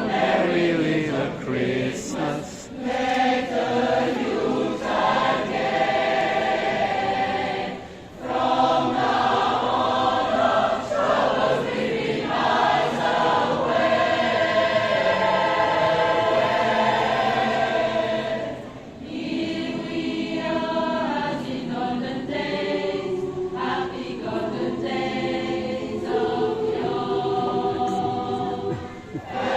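A choir singing, many voices together, with brief breaks between phrases about 8 seconds and 19 seconds in.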